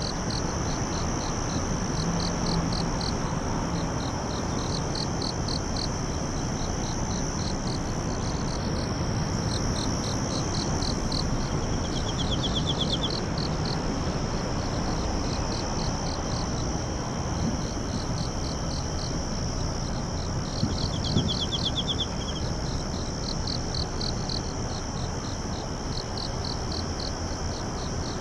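Insects chirping in chorus: trains of rapid pulses lasting about a second and repeating every second or two, over a steady high-pitched drone, with an even background hiss beneath.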